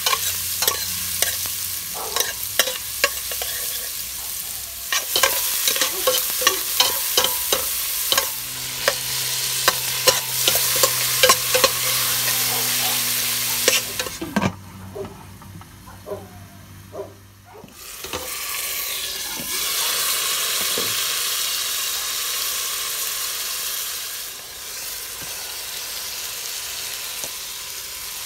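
Minced garlic, then tomatoes and onions, frying in hot coconut oil in a stainless steel stockpot, with a metal spoon scraping and clinking against the pot during stirring. The sizzle drops away for a few seconds about halfway, then returns steady.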